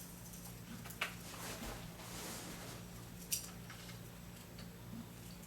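Sand being emptied from a cordless stick vacuum's dust bin: a sharp plastic click about a second in, a soft hiss of trickling sand, and another click a little past three seconds.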